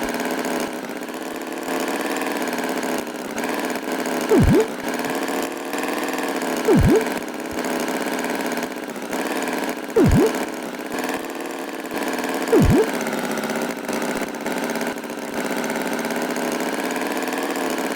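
Tractor engine idling steadily, with four short loud sweeping sounds that drop steeply in pitch and spring back up, a few seconds apart.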